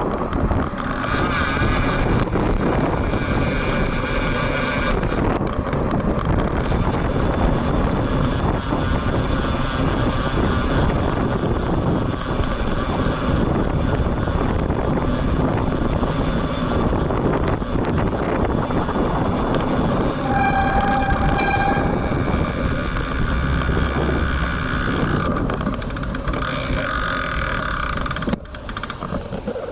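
Strong gusty wind buffeting an action camera's built-in microphone while riding, a dense rumbling rush, with road traffic underneath. About twenty seconds in, a brief pitched tone with overtones sounds for a second or two.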